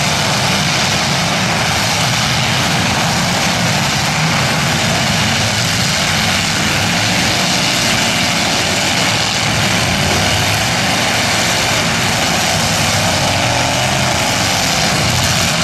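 Many demolition derby cars' engines running and revving at once, a loud, steady mechanical din.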